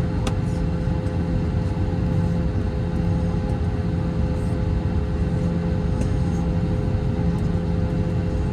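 Airbus A321 during pushback with its engines not yet started: a steady low rumble and hum with two constant tones, from the aircraft's APU and air-conditioning and the push. A single short click sounds just after the start.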